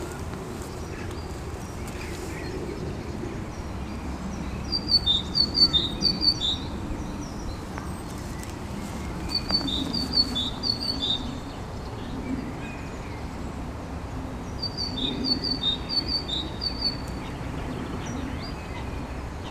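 Songbird singing in three short bouts of quick, high chirping notes, about five seconds apart.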